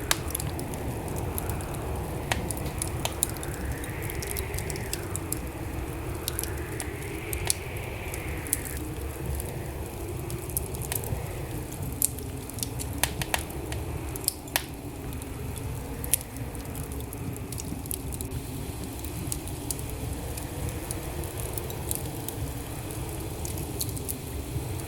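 Wood fire burning in a fireplace: a steady low rumble of flames with frequent sharp crackles and pops from the burning logs. A faint whistle rises and falls twice in the first third.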